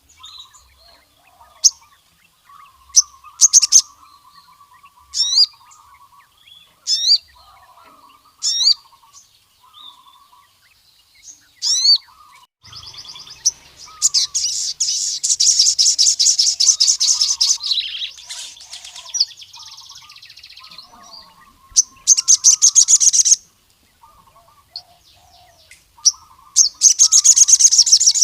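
A male sogon sunbird singing in full voice. It gives sharp, high chirps that slide steeply in pitch, one every second or two, then breaks into long, very fast, loud trills three times in the second half. Fainter, lower chattering bird notes run underneath.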